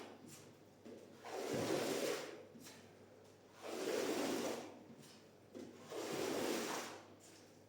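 Squeegee drawn in slow strokes across a soaked shaggy rug, forcing out dirty water. There are three long swishes, about one every two seconds.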